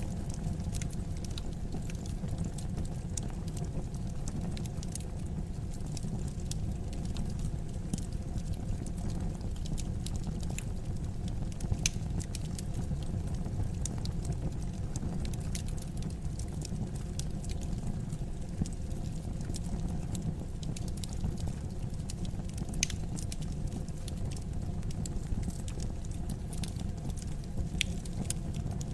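Wood fire crackling in a fireplace: irregular sharp pops and crackles over a steady low rush of burning.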